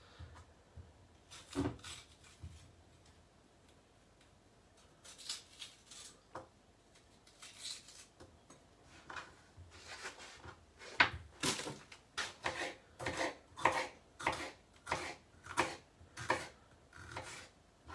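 Kitchen knife cutting a red pepper on a chopping board: a single knock, a short pause, then a run of short knocks about two a second as the pepper is chopped.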